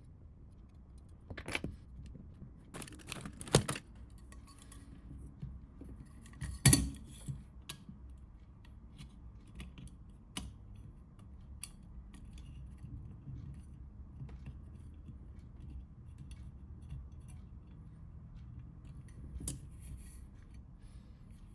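Scattered sharp clicks and taps of small plastic and metal parts being handled, as when a Nokia 3310 mobile phone is taken apart, with the loudest clicks about three and a half and seven seconds in. A faint steady low hum runs underneath.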